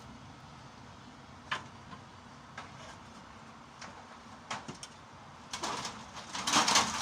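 Metal fluorescent light fixture housings being handled and sorted: a few separate knocks and clanks, then a louder scraping rattle near the end.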